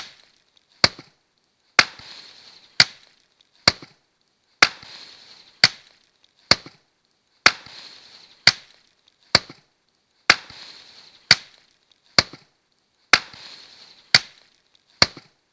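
Axe chopping wet branches into chips, with sharp blows coming steadily about once a second.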